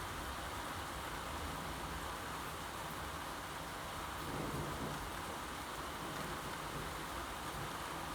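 Steady rain falling, with a brief low rumble of distant thunder about four seconds in.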